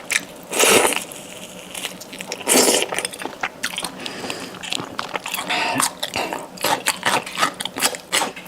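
Close-up chewing and biting of fatty lamb chop meat, with many small wet mouth clicks and two louder bursts about a second in and near three seconds.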